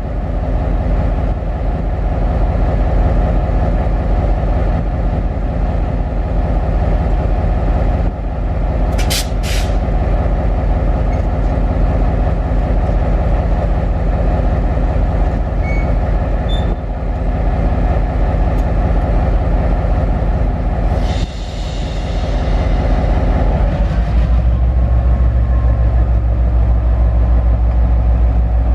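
A train running with a steady low rumble. A brief hiss comes about nine seconds in and a longer one about three-quarters of the way through, after which a deeper, louder hum takes over.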